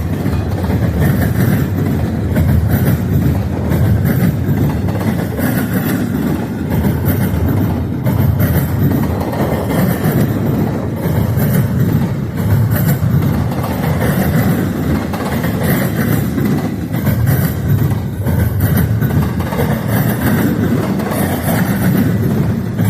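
Freight train rolling past, its cars running steadily over the rails, with wind buffeting the microphone.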